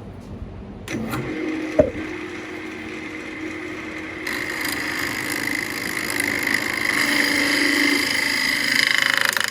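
Central Machinery benchtop wood lathe motor starting up about a second in and running steadily, with a sharp knock just after. From about four seconds a higher whine and hiss join in and build, then drop off sharply at the end.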